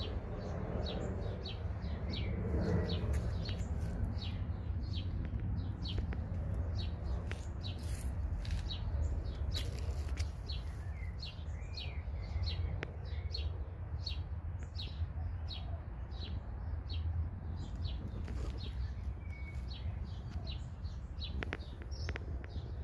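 Small birds chirping outdoors: a steady run of short, high chirps, about one or two a second, over a low steady rumble.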